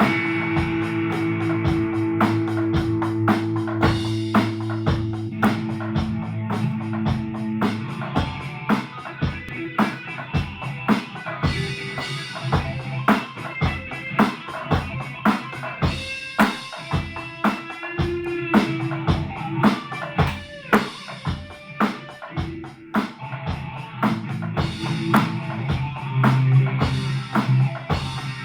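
Drum kit and guitar playing loud heavy rock: held guitar chords ring over the drums for the first several seconds, then fast, even drum hits drive on under guitar riffs with bent notes.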